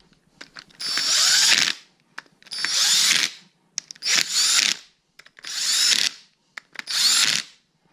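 Power drill spinning the end-plate bolts in to snug them before torquing, in five bursts of about a second each, each whine rising as the drill spins up.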